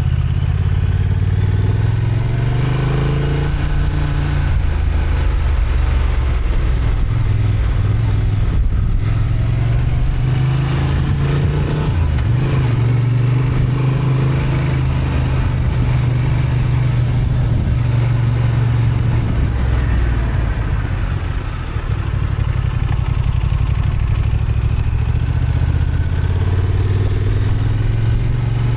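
Honda XL750 Transalp's 755 cc parallel-twin engine running under load, its note rising and falling with the throttle, with a short drop in level about three-quarters of the way through, over steady road and wind noise.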